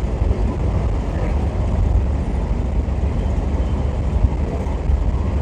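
Steady low rumble of road and engine noise inside a moving vehicle's cabin while driving on the highway.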